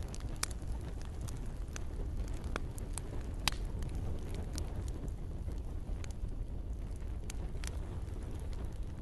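Campfire crackling: irregular sharp pops and snaps over a steady low rumble of burning wood, with one louder pop about a third of the way in.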